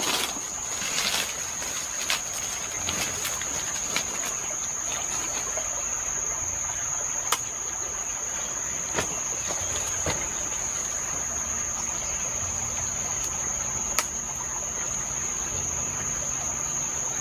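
Insects chirring in the garden, one unbroken high-pitched drone. A few sharp clicks sound now and then, the loudest about a third of the way in and again past three-quarters.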